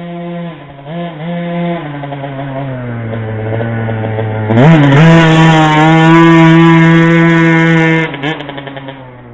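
Small two-stroke engine of a 2008 KTM 50cc pit bike, given a few quick throttle blips, then revs falling off. About four and a half seconds in it revs up sharply and holds high revs for about three seconds, the loudest part, before dropping away and fading.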